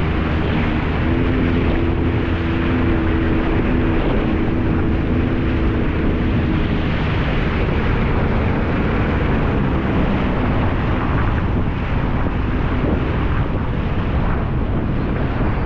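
Jet ski engine running under way, mixed with wind buffeting the microphone and rushing water. A steady engine tone holds through the first half, then fades into the wind and water noise.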